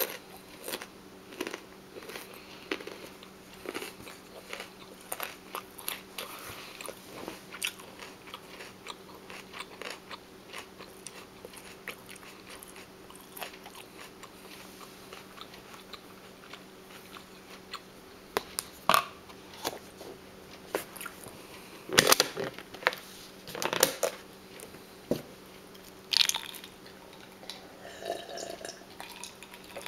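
Close-miked chewing of crunchy raw food: a steady run of small wet crunches, with several louder crunching bites about two-thirds of the way through.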